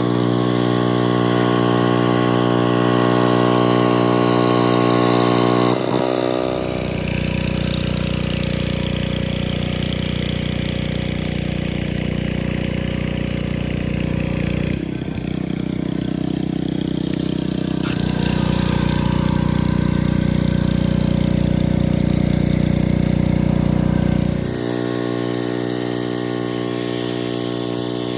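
Pressure washer engine running continuously. About six seconds in its note changes to a deeper, rougher sound, and it switches back to the earlier, higher note about twenty-four seconds in.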